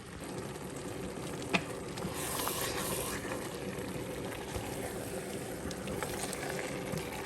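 Pot of eru bubbling and sizzling steadily, with palm oil just added. A single sharp knock, like a utensil against the pot, comes about a second and a half in.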